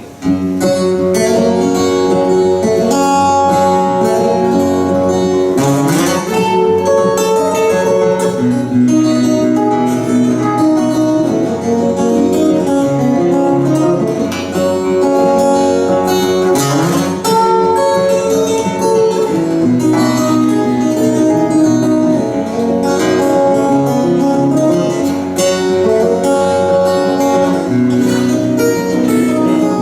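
Several guitars playing a plucked instrumental tune together; they come in together just after the start.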